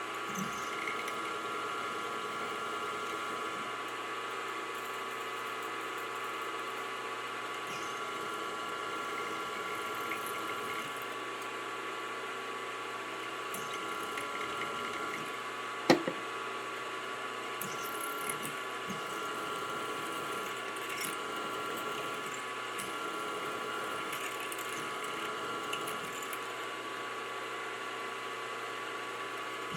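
Machine-tool spindle running steadily with a high whine while cutting a small 304 stainless steel block. A single sharp click comes about 16 seconds in.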